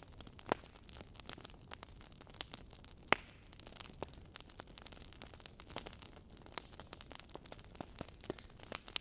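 Wood fire in a fireplace, logs crackling: irregular sharp pops and snaps over a soft steady hiss, with one louder pop about three seconds in.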